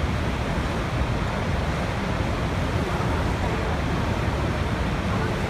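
Steady, loud rushing of a waterfall, falling water making an even wash of noise.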